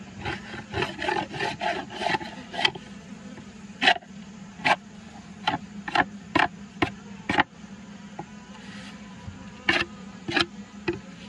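Honeybees buzzing steadily around an open hive, with a string of short scraping or rubbing strokes over the hum. The strokes come quickly for the first couple of seconds, then about one every half second to second.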